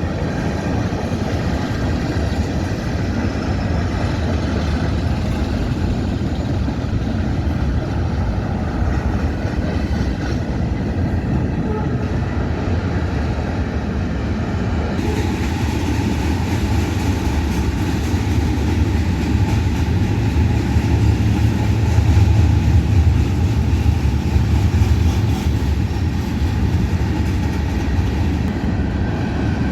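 Freight train cars rolling past, a steady rumble of steel wheels on the rails that grows somewhat louder and brighter from about halfway through.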